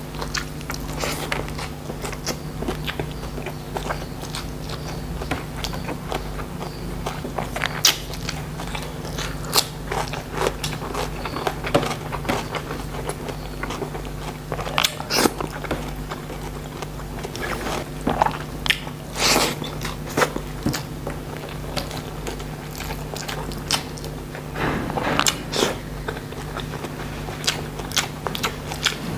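Close-miked eating: wet chewing with irregular sharp, crisp crunches as bites are taken from a meal of pesmol shrimp and raw vegetables.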